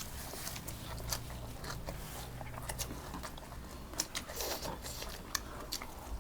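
A person eating close to the microphone: biting and chewing, with many small irregular crunchy and wet clicks.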